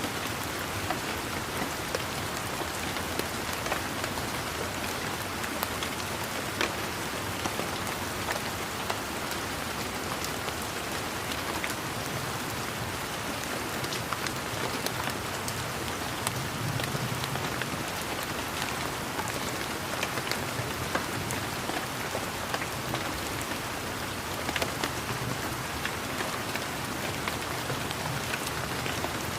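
Steady rain: an even hiss of rainfall with many separate close raindrops heard as sharp ticks throughout.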